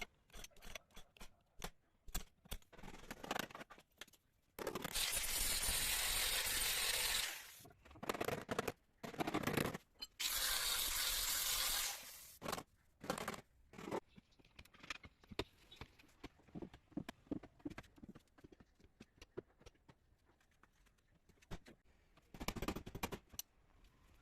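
Car bodywork in progress: scattered clicks, knocks and scrapes, with two loud bursts of hissing, the first about two and a half seconds long and the second about two seconds, a few seconds later.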